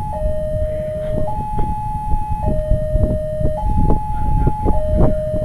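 Two-tone hi-lo warning siren alternating steadily between a lower and a higher note, each held a little over a second. Under it is a heavy low rumble with scattered knocks.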